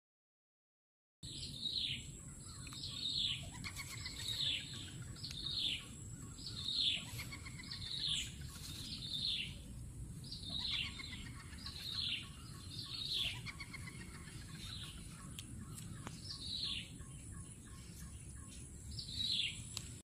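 A calling bird: a series of about a dozen high, quick downward-sliding notes, one every second or so, starting about a second in. Under the calls runs a steady, thin, high-pitched tone.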